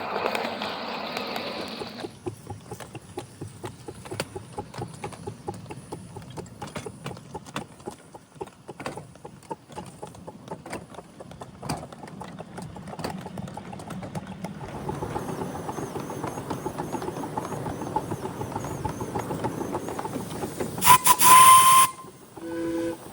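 Miniature live steam train running on 7.5-inch gauge track, with a rapid, irregular clicking from the running train. Near the end comes one loud steam whistle blast lasting about a second.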